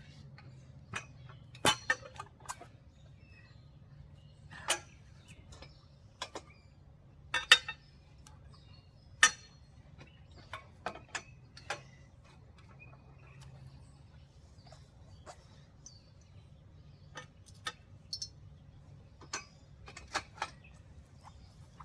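Steel trampoline frame parts clinking and knocking at irregular intervals as a leg is worked onto the frame and its bolts are handled, with the two loudest clanks about seven and nine seconds in.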